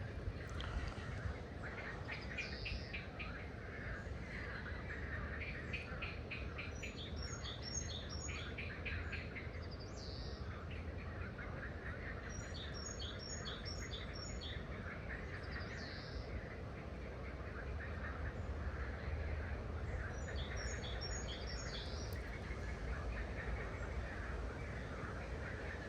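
Wild birds singing and calling in short chirping phrases that come back three times, with a quick run of repeated notes early on, over a steady low outdoor background noise.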